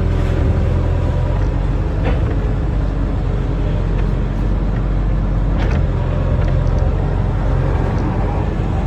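Excavator's diesel engine running steadily under work, with two short knocks, about two seconds in and again near the middle.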